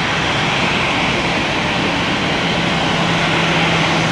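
Steady jet airliner engine noise at the airport, a constant rushing sound with a low steady hum coming in about two and a half seconds in.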